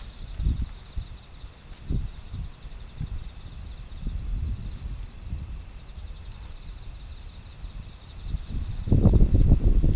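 Strong typhoon wind buffeting the microphone in uneven low rumbling gusts, easing in the middle and swelling again near the end.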